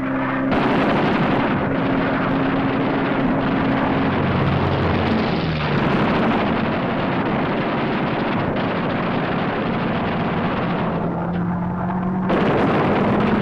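Roar of a fighter plane's piston engine, dense and steady, with the engine note dropping in pitch about five seconds in.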